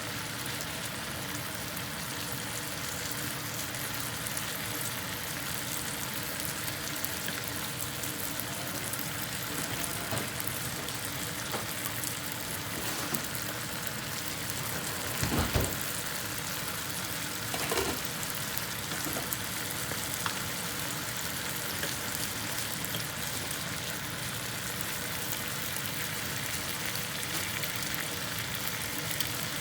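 Thin chicken slices frying in olive oil in a pan: a steady sizzle with fine crackling. Two louder knocks come about halfway through.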